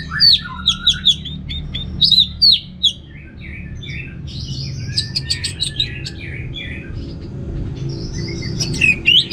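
Orange-headed thrush singing: a quick run of sharp, high whistled notes, then a softer, more varied warbling phrase, over a steady low hum.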